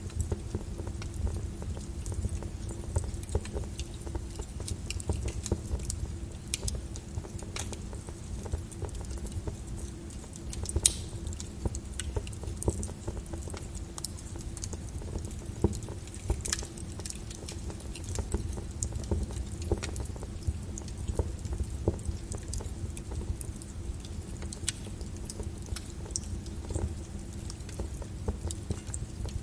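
Wood fire in a fireplace crackling, with irregular sharp pops over a low steady rumble, layered with rain.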